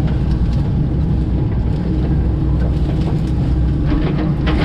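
Komatsu PC88 excavator's diesel engine running steadily under working load, with a few short cracks in the second half.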